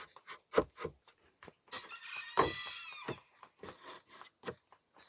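A rooster crows once, a call of about a second, about two seconds in, over a string of irregular sharp knocks and thuds from timbers being handled and set down.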